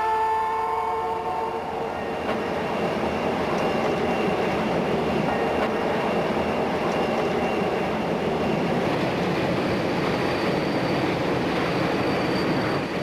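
A train rumbling steadily across a steel truss railroad bridge. A chord of held tones fades out about a second and a half in, and a faint steady high tone runs through the second half.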